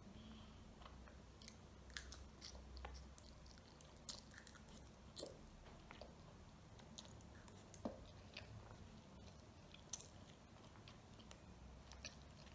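A child eating ramen noodles with chopsticks: faint chewing and mouth sounds, with scattered small sharp clicks.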